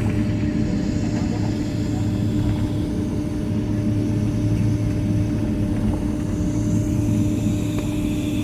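Steady cabin drone inside a Boeing 767-300ER on the ground after landing, with a constant low hum.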